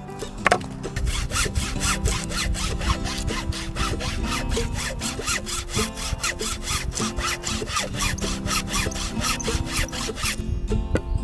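Hand saw cutting through firewood in quick, even back-and-forth strokes, about four a second, stopping near the end.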